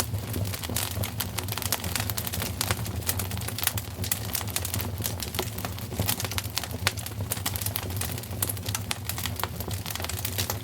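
Wood fire crackling in a fireplace: frequent, irregular sharp snaps and pops over a steady low rumble.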